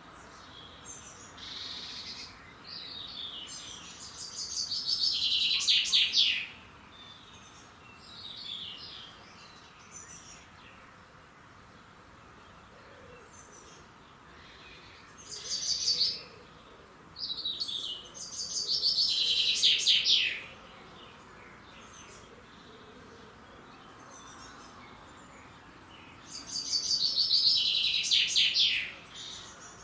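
A songbird singing the same phrase three times, each a fast run of notes falling in pitch, with a few shorter calls between the phrases.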